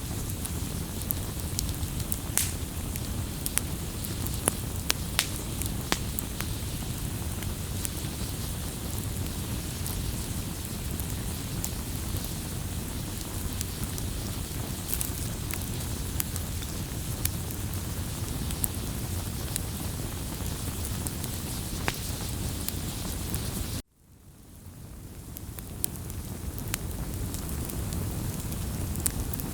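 Wood fire burning, with a steady low rumble and scattered sharp crackles and pops. About 24 seconds in, the sound cuts out abruptly and fades back in over a couple of seconds.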